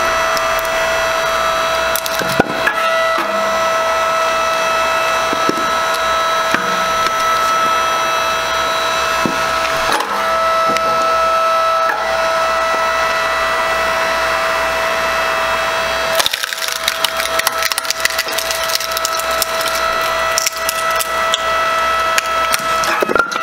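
9-ton hydraulic log splitter splitting firewood: its motor and pump run with a steady high whine while the wood cracks and splinters under the wedge. The whine breaks off briefly a few times.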